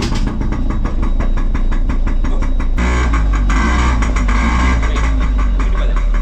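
Motorcycle engine running with an even pulsing beat, getting louder about three seconds in.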